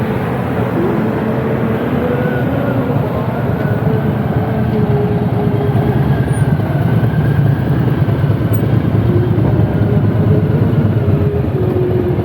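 Car engines running, a loud steady rumble with faint, slowly shifting pitches.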